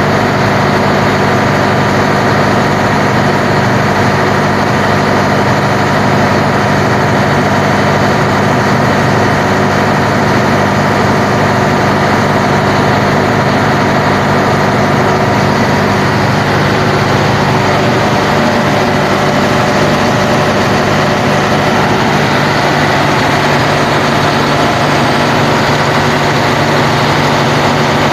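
Engine running at a steady idle on a test run, loud and unchanging in pitch.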